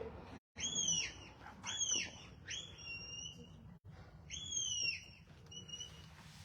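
A shepherd whistling commands to a working border collie: a string of shrill whistle notes, some arched glides that rise and fall, others short flat blasts, directing the dog around the sheep.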